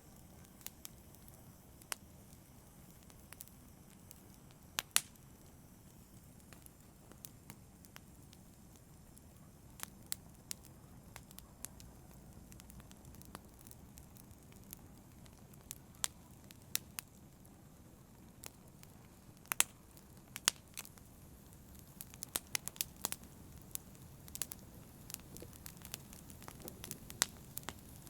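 Campfire burning: a steady low hiss of flame with irregular sharp crackles and pops from the burning wood, coming thicker near the end.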